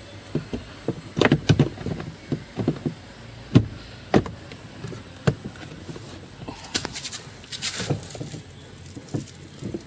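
Plastic clicks and knocks as a Toyota Innova's glove compartment is pushed back in and snapped onto its clips, with a brief scraping rustle about seven seconds in.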